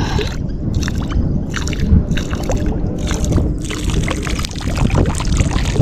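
A stream of urine splashing steadily into a pool of standing rainwater, over a low rumble.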